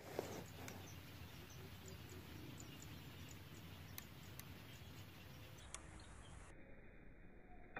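Near silence: faint outdoor background hiss with a few soft, scattered ticks.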